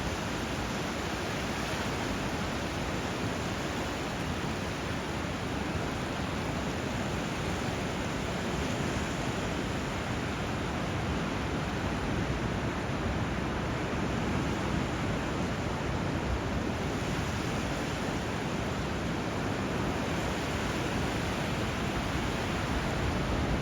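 Steady rush of water where a river runs into the sea, the river's flow and the surf blending into an even hiss with no separate wave surges.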